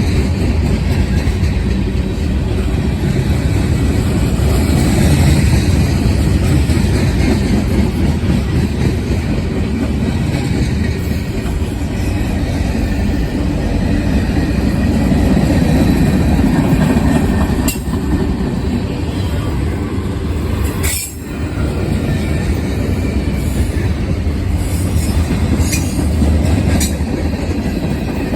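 Freight cars of a Norfolk Southern mixed freight train rolling past at close range: a steady, loud rumble of steel wheels on rail with clickety-clack over the joints and some faint wheel squeal.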